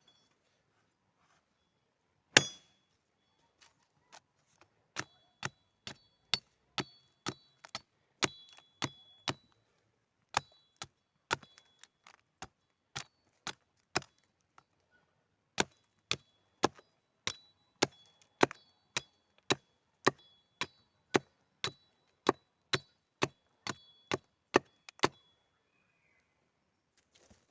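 Repeated blows of a hand tool, a hatchet or hammer striking at about two strokes a second, each with a short metallic ring. There is one louder single blow about two seconds in, then two runs of strikes with a short pause between them.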